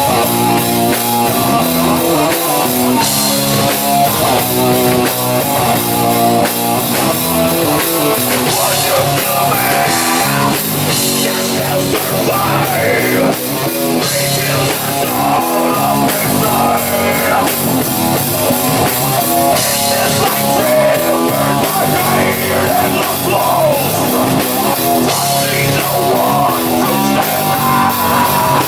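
Rock band playing live: guitar over a drum kit, loud and steady throughout.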